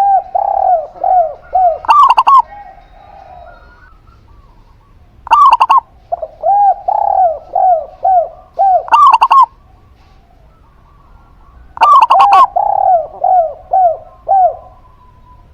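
A zebra dove and a spotted dove cooing in turn. Short loud coos come about four times, alternating with three runs of five or six softer, arching coo notes, with short pauses between the phrases.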